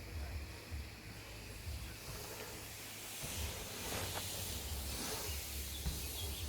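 Hiss of BMX tyres rolling over dirt trails, swelling from about two seconds in, with wind rumbling on the microphone.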